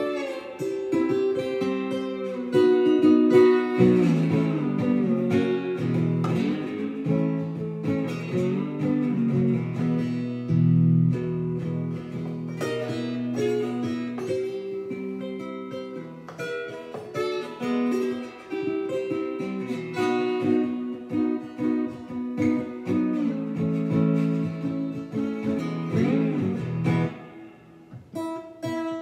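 Ovation resonator guitar played with a slide: a slow blues in E, plucked notes and chords with pitch glides between them. The playing thins out briefly near the end before picking up again.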